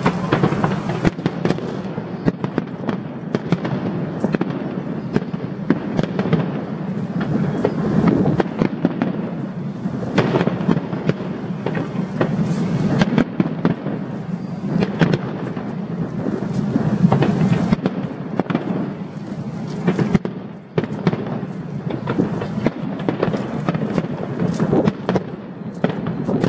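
Fireworks display going off in a dense, continuous barrage: many sharp bangs and crackles overlapping on a steady rumble of bursts.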